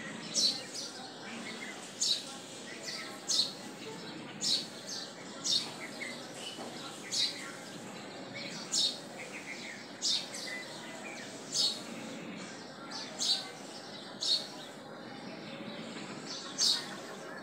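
A bird chirping over and over, short high chirps about once every second or so, over a steady faint background hum.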